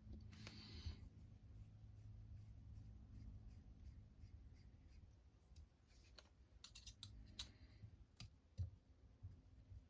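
Faint clicks and light rattles of small parts being handled, with a brief rustle about half a second in and a cluster of clicks near the end, over a low steady hum.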